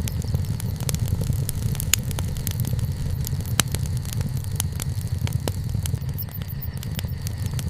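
Wood bonfire burning, with frequent sharp crackles and pops from the burning wood over a steady low rumble.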